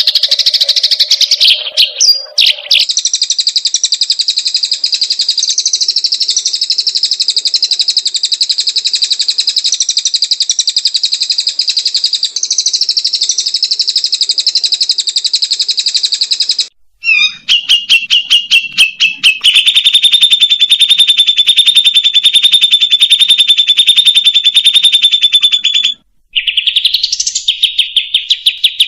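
Bird-training (masteran) recording of a small songbird's very fast, buzzy trills, each held steady for several seconds. The song cuts off suddenly twice, once about two-thirds of the way in and again near the end, and comes back lower in pitch after the first break.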